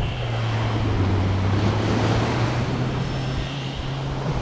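An engine running steadily with a low hum, over the wash of waves and wind on the microphone.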